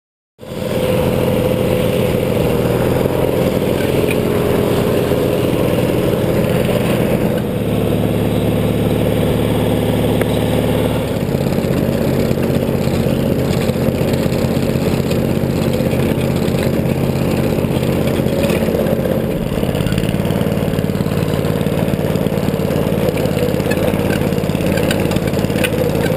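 Small gasoline engine of a ridden off-road machine running steadily, with the engine speed rising about a third of the way in and dropping again a few seconds later.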